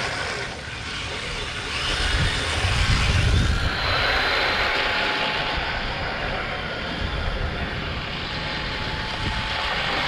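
Brushless electric motors of a radio-controlled Kyosho Blizzard tracked snowcat running on a 3S lipo, with a steady whine as it drives and slides around. A heavier low rumble comes in between about two and four seconds in.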